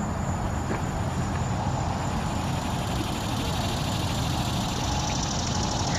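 Insects trilling: a steady high, thin buzz, with a fast pulsing chirr joining in over the last second or so. Under it runs a steady low rumble.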